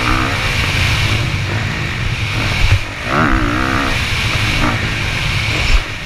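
Motocross bike engine revving, its pitch rising and falling near the start and again about three seconds in, over a heavy continuous low rumble.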